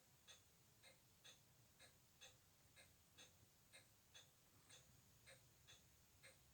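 Faint, regular ticking, about two ticks a second, over a low hiss.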